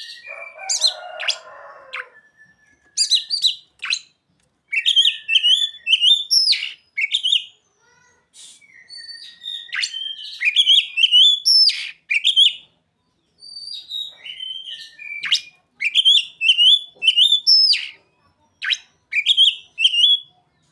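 Oriental magpie-robin (kacer) singing in repeated bursts of quick, high whistled and warbled phrases, pausing briefly between bursts. Its song is filled with mimicked calls of the ciblek (bar-winged prinia) and sogon. A short harsh rasp comes at the very start.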